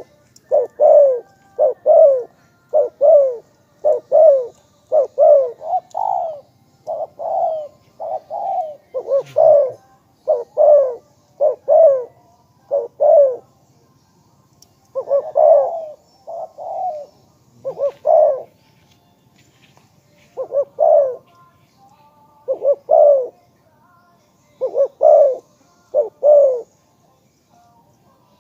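Spotted dove cooing: a long run of short, repeated coo notes in clusters of two to four, with brief pauses between the clusters.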